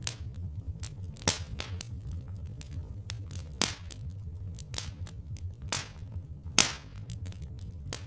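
Wood fire crackling, with irregular small snaps and a handful of sharper pops, over a steady low rumble.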